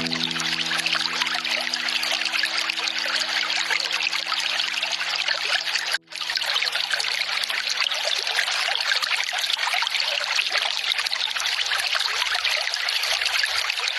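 Water trickling steadily from a bamboo spout, a continuous gentle splashing flow. Soft held music notes sit underneath and die away by about twelve seconds in, and the sound cuts out for a split second about six seconds in.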